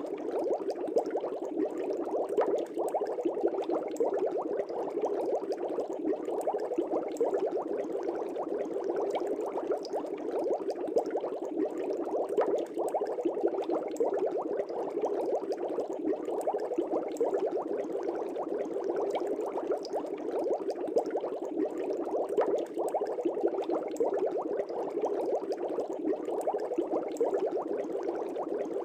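Aquarium air bubbles rising and breaking at the water surface: a steady, dense bubbling with many small pops.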